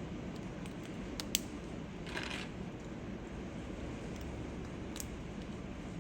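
Steady rain in the background, with a few sharp small clicks from keyboard parts being handled and a short hiss about two seconds in.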